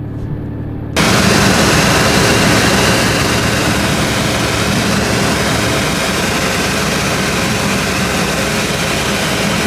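Floatplane engine and propeller droning, heard from inside the cabin: a low hum, then about a second in a loud, steady drone with heavy rushing noise cuts in and eases slightly over the following seconds.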